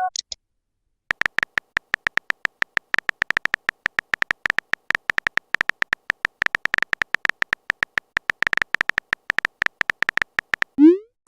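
Rapid phone-keyboard typing sound effect: a quick, irregular run of short clicks, several a second, that starts about a second in and keeps going almost to the end.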